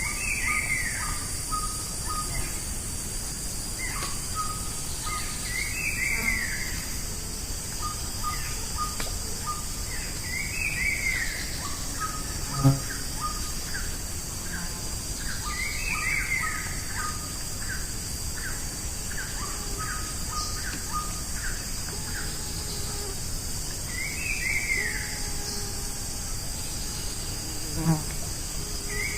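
Amazon rainforest canopy ambience: a steady high insect drone under a bird whose short, falling call repeats about every five seconds, with other scattered short calls. Two sharp knocks stand out, one about halfway through and one near the end.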